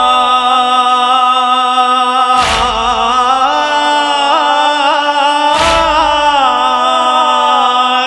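Latmiya mourning chant: male voices holding a sustained, slowly wavering chord between the reciter's verses. Two heavy unison chest-beating strokes (latm) fall about three seconds apart, keeping the lament's beat.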